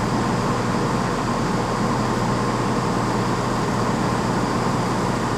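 Steady railway station noise: an even, unchanging hum and rumble of trains and station equipment.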